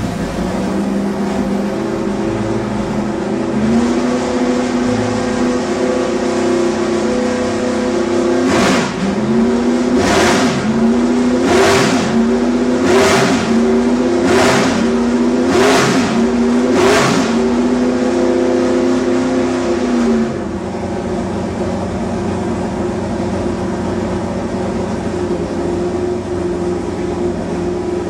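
572 cubic-inch big-block Chevy V8 running at a held speed on an engine dyno, cut by seven short hissing bursts about a second and a half apart, each briefly bending the engine note: momentary hits of the nitrous button, clearing hot fuel and nitrous from the lines before the pass. About twenty seconds in the engine drops to a lower, steady speed.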